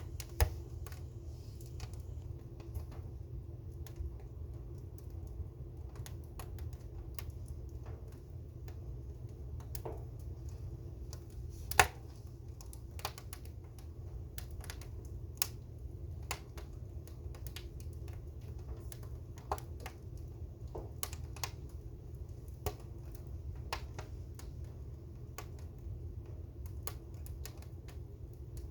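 Wood fire crackling: irregular sharp pops and snaps, a few a second, with one much louder pop about twelve seconds in, over a steady low rumble.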